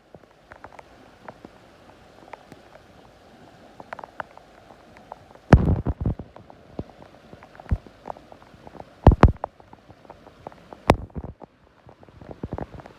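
Steady heavy rain falling, with irregular sharp knocks and a few loud thumps close to the microphone, the loudest about five and a half and nine seconds in.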